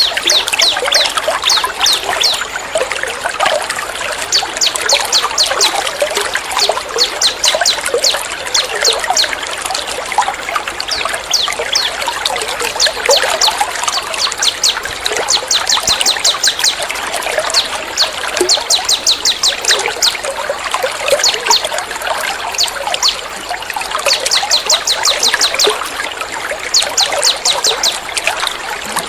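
Recorded songbirds singing fast runs of sharp, evenly repeated high notes in bursts of a few seconds, over a steady trickle of running water. It is a bird-training mix of bird calls and a water sound.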